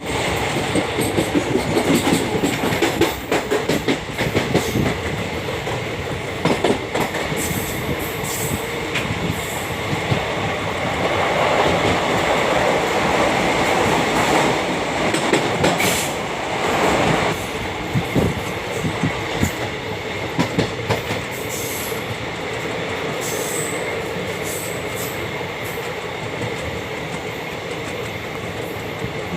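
A passenger train running on the ghat line: a steady rumble of wheels on rails, with irregular clicks and knocks as the wheels cross rail joints. The clicks are thickest in the first third, and the rumble swells louder for a few seconds in the middle.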